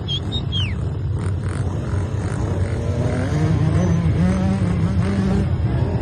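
Off-road motorcycle engine running, its pitch rising a little about three seconds in. A few short high chirps come right at the start.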